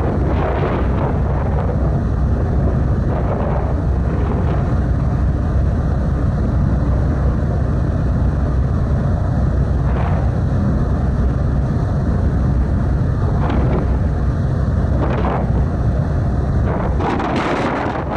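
Car ferry under way: a steady low rumble with wind buffeting the microphone in gusts, the strongest near the end.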